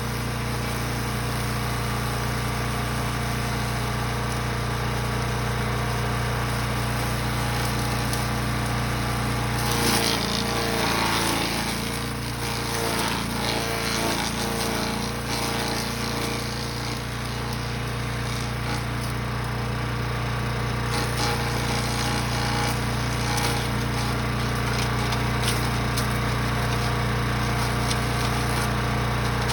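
Brush Master 3-in-1 wood chipper/shredder running steadily on its small engine. About ten seconds in, a burst of crunching and shredding marks material going through the chipper. The engine note wavers and sags under the load for several seconds, then settles back to a steady run.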